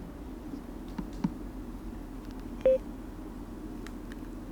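Two faint clicks as the power button on a FreedConn Tmax S Pro helmet intercom is pressed, then one short electronic beep from the unit as it responds during Bluetooth pairing, over a low steady hum.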